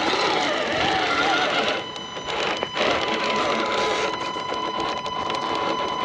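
1/10-scale RC rock crawler's electric motor and geared drivetrain whining as it climbs over rocks. The pitch wavers with the throttle in the first second or so, then holds steadier.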